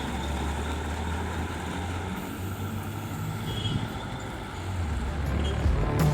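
Heavy truck engine running: a steady low rumble.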